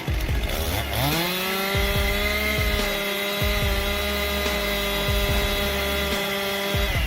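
Chainsaw engine revving up to full speed about a second in, holding a steady high pitch, then cutting off near the end.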